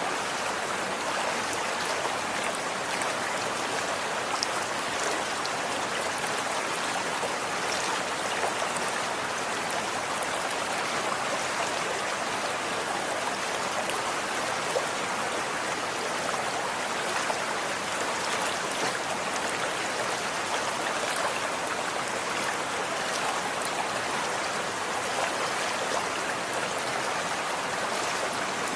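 Running water flowing steadily: an even rush with a few brief ticks here and there.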